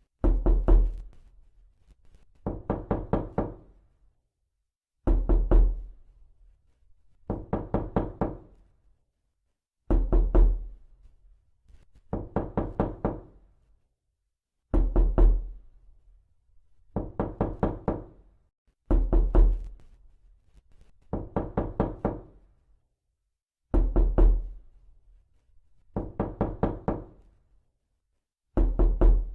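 Knocking on a door in quick bursts of several knocks each, the bursts repeating about every two seconds and each one fading away.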